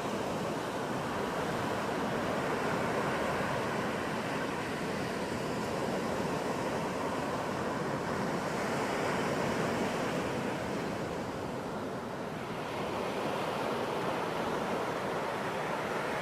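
Ocean surf breaking and washing up a beach: a continuous rush that swells and eases a few times as waves come in.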